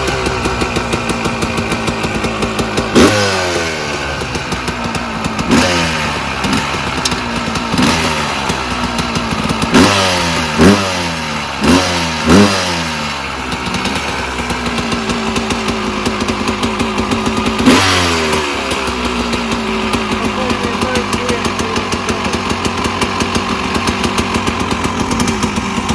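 1994 Yamaha WR250 two-stroke dirt bike engine running at idle, blipped about seven times. Each rev rises sharply and falls away, with a quick run of four in the middle.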